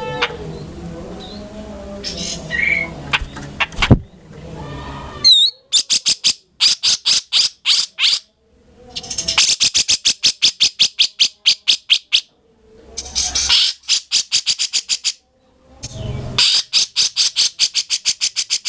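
Grey-cheeked bulbul (cucak jenggot) singing actively. From about five seconds in it gives four bouts of rapid, evenly repeated high notes, several a second, with short silent gaps between bouts. A sharp click comes just before the first bout.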